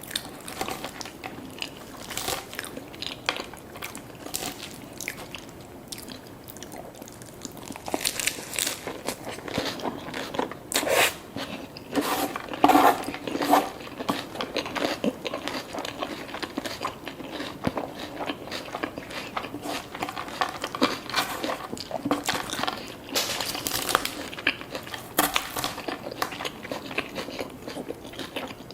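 A person biting into and chewing crunchy fast food close to the microphone, with many short crunches. The crunching comes in two louder spells, a longer one in the middle and a shorter one later.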